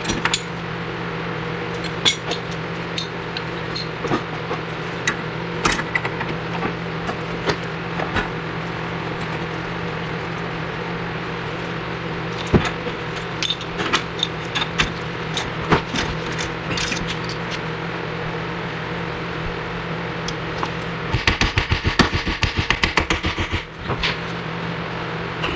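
Garage work noise: scattered metallic clicks and knocks of tools on the front suspension, over a steady mechanical hum. About 21 seconds in comes a rapid rattling run of impacts lasting a couple of seconds.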